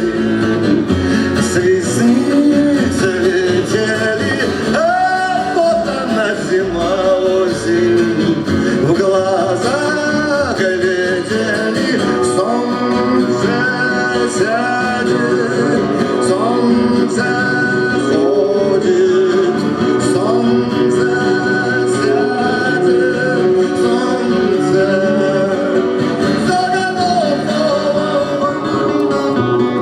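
Music: a man singing with gliding, drawn-out vocal lines over guitar accompaniment.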